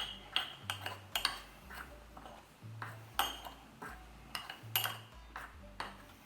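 A spoon stirring dry mug-brownie mix (flour, sugar, cocoa and baking powder) in a mug. It clinks against the mug's sides about twice a second.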